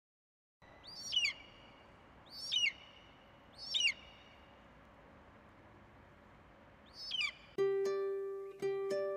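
A bird's harsh, falling call, given three times about a second and a half apart and once more later, over a faint outdoor hiss. Near the end, music comes in with plucked notes over a held low note.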